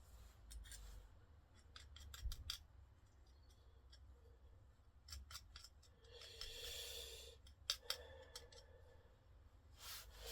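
Faint, scattered clicks of small metal parts being handled, and a short gritty rub about six seconds in, as an engine valve smeared with lapping paste is worked on the cylinder head.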